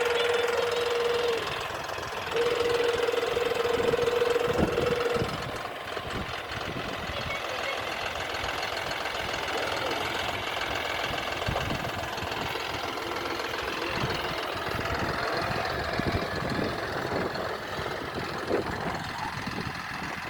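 John Deere 5405 CRDi tractor's diesel engine running, with a steady whine in two stretches over the first five seconds, broken briefly about a second in; after that the engine runs on alone, a little quieter.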